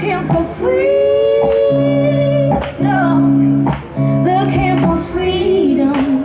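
Live blues-rock band playing: guitar and held chords under a female voice singing a sustained, gliding line, with regular drum hits.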